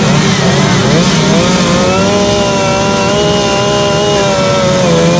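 Two-stroke chainsaw running and cutting wood, its engine pitch rising and falling with the load, then holding steady for a couple of seconds near the middle.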